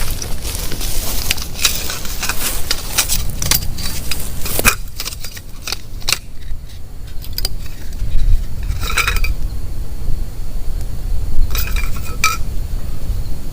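Metal items clinking and clattering in a quick run of sharp clicks, then two short ringing rattles about halfway and near the end, over a steady low rumble.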